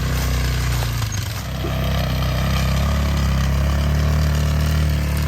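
ATV engine running steadily as it sets off hauling a heavy pine log, its note settling into an even drone about a second and a half in.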